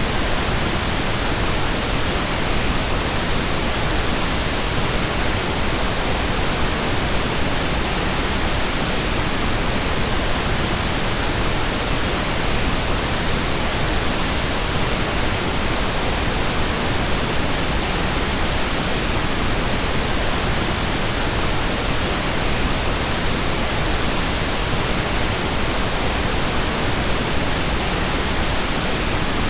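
Pink noise: a steady, even hiss covering all frequencies, unchanging throughout.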